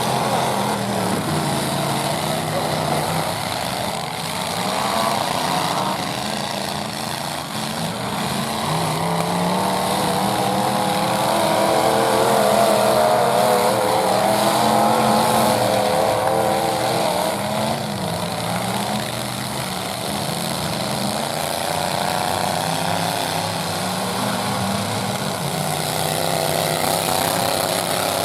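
Several full-size demolition derby trucks' engines revving and running together, their pitches rising and falling over one another as the trucks drive and ram.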